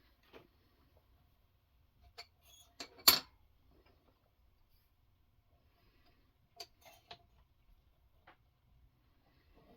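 A few scattered sharp clicks and small knocks of hard parts handled at a knife sharpening system, the loudest about three seconds in, with others a few seconds later.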